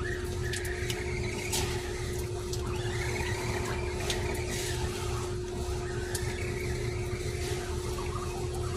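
Arrma Granite RC monster truck's electric motor whining, rising and falling in pitch as the throttle is worked, with a few short clicks. A steady hum and a low rumble run underneath.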